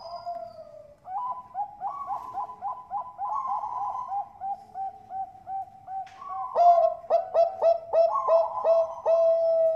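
Bangkok-strain zebra doves (perkutut) cooing in a fast run of short, repeated notes, about four a second, more than one bird at once. The notes get louder and sharper about two-thirds of the way through.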